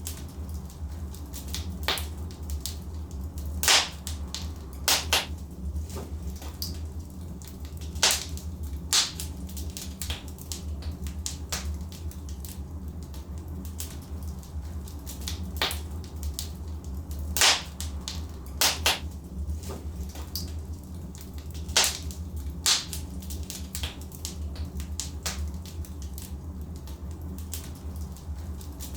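Logs burning in a wood fireplace, crackling with sharp, irregular pops; the loudest come a few seconds apart, over a steady low rumble.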